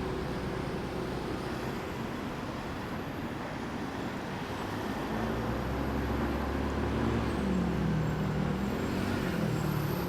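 Motorbike ride through city traffic: engine and road noise. From about halfway an engine note rises and falls as the bike speeds up and slows.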